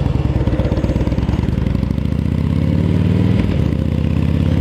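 Motorcycle engine running under way with wind noise. Its note climbs slowly, then drops sharply about three and a half seconds in as the throttle comes off.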